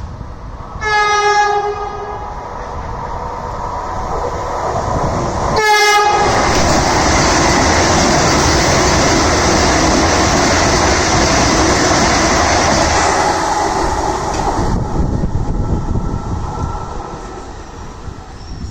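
Vande Bharat electric trainset sounding its horn twice: a blast about a second in and a short one at about six seconds. It then passes at speed with loud, steady wheel and rail noise that fades away over the last few seconds.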